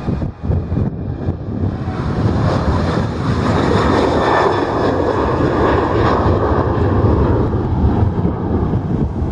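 Airliner engine noise swelling over the first few seconds and then staying loud and steady, with wind buffeting the microphone.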